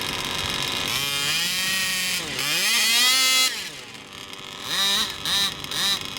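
Radio-controlled car's motor revving to a high whine that dips briefly, climbs again and cuts off, followed by three short bursts of throttle near the end.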